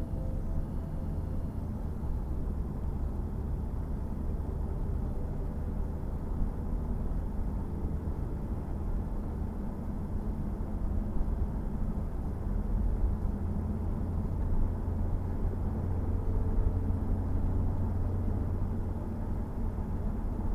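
The 2017 Jaguar F-Type S's 3.0 litre supercharged V6 running, a steady low rumble with small swells in level.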